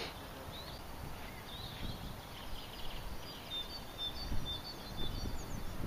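Small birds chirping and giving short whistles faintly over a low steady background rumble.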